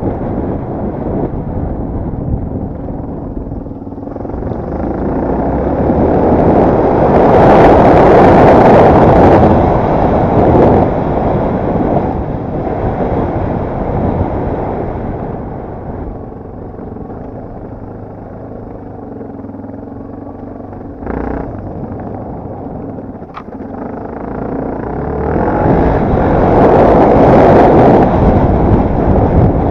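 Yamaha TT250R enduro motorcycle engine running while being ridden off-road. It swells to its loudest twice, with a quieter stretch in between and a short sharp noise about two-thirds of the way through.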